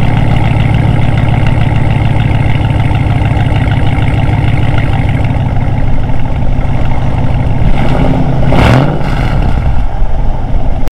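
Jeep Commander's 5.7 Hemi V8 running loud and steady through a straight-piped exhaust that keeps only the resonator, with one quick rev that rises and falls about eight and a half seconds in.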